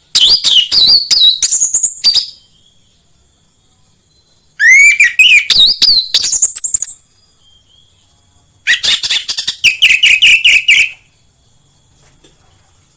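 Orange-headed thrush singing: three loud phrases of quick, rising and falling whistled notes, each about two seconds long, with short pauses between them.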